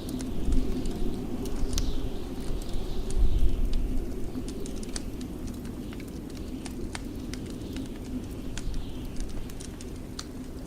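Wood fire crackling with scattered sharp pops, over the low rumble of blizzard wind that swells in gusts about half a second in and again around three seconds.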